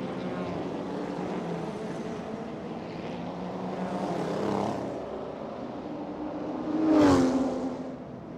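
Lamborghini race cars' engines running on the grid, a steady engine sound with a rise around four to five seconds in and a louder rev that climbs and falls about seven seconds in.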